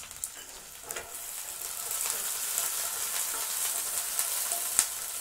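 Shallots, garlic, ginger and green and dried red chillies sizzling in hot oil in a nonstick kadai. They are stirred with a wooden spatula, and the frying grows louder a second or two in. A sharp click sounds near the end.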